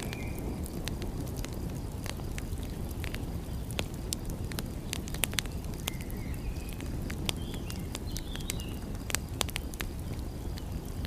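Wood fire crackling: irregular sharp pops and snaps over a steady low rumble, with a few faint short chirps now and then.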